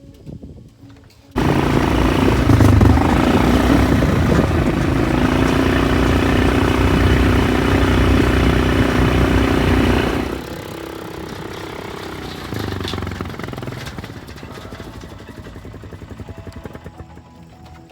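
A small vehicle engine running steadily, loud from about a second in. It drops to a lower, quieter level about ten seconds in.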